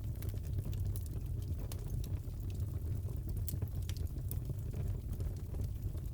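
Crackling wood fire in a fireplace: a steady low rumble of burning with sharp pops and snaps at irregular moments.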